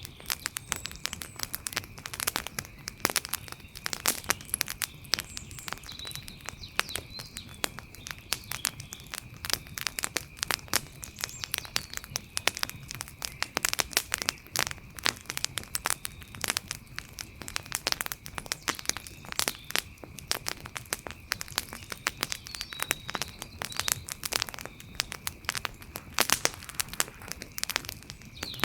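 Wood fire crackling, with many sharp, irregular pops and snaps coming thick and fast throughout.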